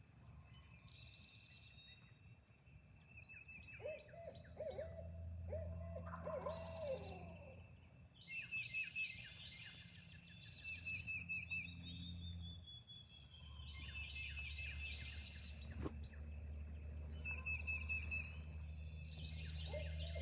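Woodland birds singing in a dawn chorus of high trills and chirps, with a run of owl-like hoots about four seconds in and again near the end.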